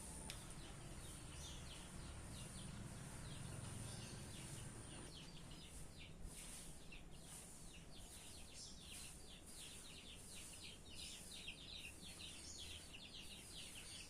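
Faint outdoor ambience of small birds chirping in quick, repeated notes, which grow busier about halfway through. A thin, high steady tone is heard for the first five seconds over a low background rumble.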